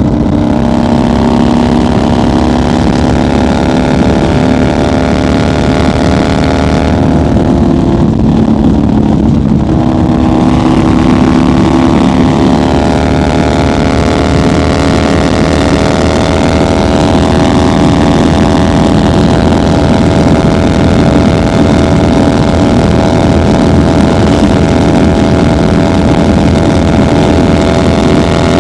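1990 Harley-Davidson FXR's Evolution V-twin engine running under way at cruising speed. The engine note dips briefly about seven seconds in, then climbs slowly.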